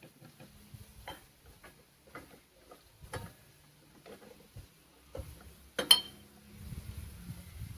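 Irregular metallic clicks and knocks from a hand-operated pressure-cooker cutting machine working on a pressure cooker, with one sharp, ringing metal clank about six seconds in.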